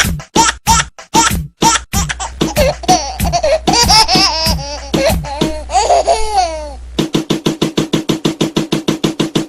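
A baby's laughter chopped and looped into a ringtone over a beat. It starts as short repeated bursts, moves into longer rising and falling giggles, and about seven seconds in switches to rapid, even stuttered pulses.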